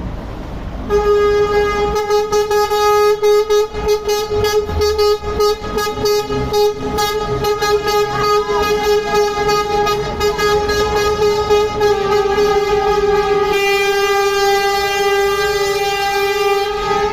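Truck horn blowing one long, steady note for about sixteen seconds, starting about a second in.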